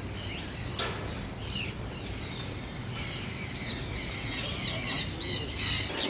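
A flock of birds squawking and chirping, with scattered calls at first and then a busy run of quick, high chirps from about three and a half seconds in.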